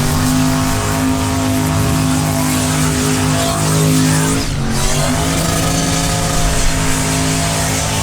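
V8 engine held at high revs during a burnout, with tire hiss, dropping briefly and climbing back up about four and a half seconds in.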